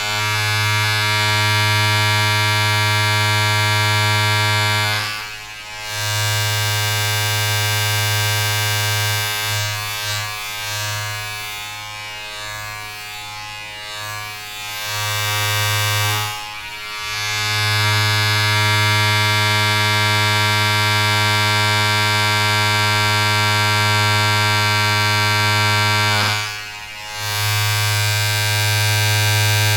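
Electric buzzing appliance, like an electric shaver or hair clipper, running with a steady low buzz. It fades briefly three times, about five seconds in, around the middle and near the end. It runs weaker and unevenly for a few seconds in the first half.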